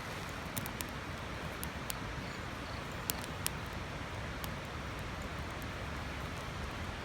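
Twig fire burning in a mini secondary-combustion fire stand: a steady rushing with scattered sharp crackles and pops as the twigs burn.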